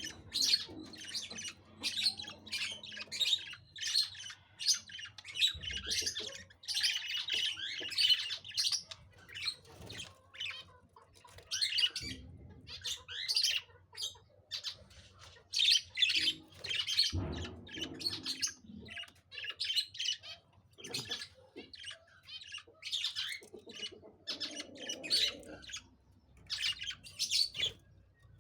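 Pet budgerigars chirping and chattering in quick, busy bursts, with brief pauses and occasional squawks, and a few soft low knocks.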